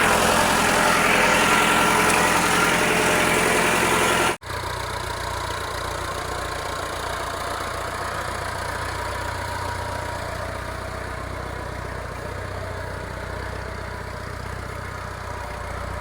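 Massey Ferguson 590 tractor's diesel engine running at idle. About four seconds in, the sound cuts off abruptly and comes back quieter and steadier.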